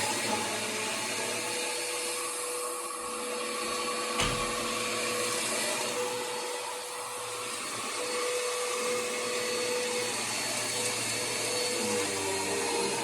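Bissell Power Force upright vacuum cleaner running steadily, a constant motor whine over airflow noise, with a single sharp knock about four seconds in.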